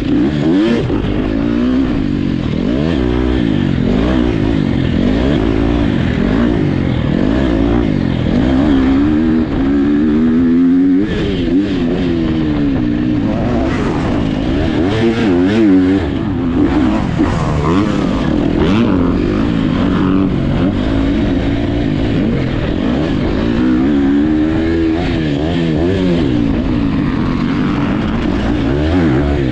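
Motocross dirt bike engines on the track, revving up and backing off again and again as they accelerate and shift, with several engines overlapping.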